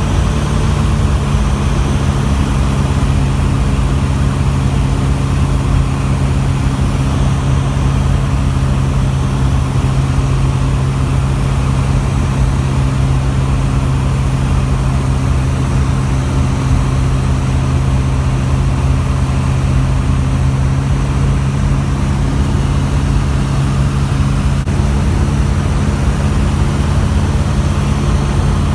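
Zenair CH 601 Zodiac light aircraft's engine and propeller droning steadily in flight, holding an even pitch throughout.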